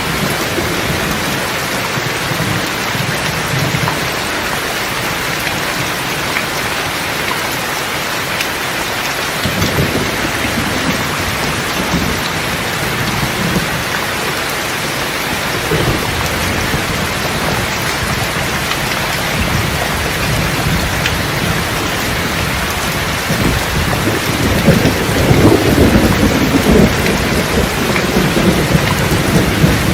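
Steady rain falling, with rolling thunder: a low rumble about ten seconds in, and a louder one swelling near the end.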